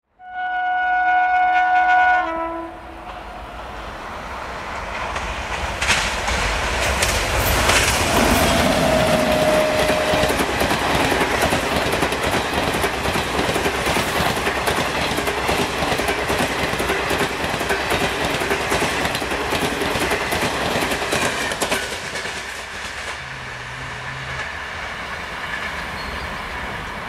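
A train horn sounds as a steady chord for about two seconds, then an Indian Railways Duronto Express hauled by a WAP-7 electric locomotive passes at high speed: the loud rush and rumble of the coaches with clickety-clack of wheels over rail joints, dying down after about twenty seconds.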